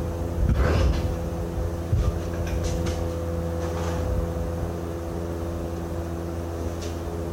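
A steady engine hum runs throughout. Several short metallic knocks and clinks come in the first four seconds, typical of tools being handled during work on a truck's kingpin.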